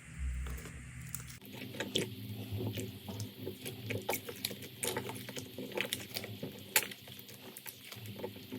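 Slime being squeezed and pressed by hand, with many small sticky pops and crackles at an irregular pace and one sharper pop near the end.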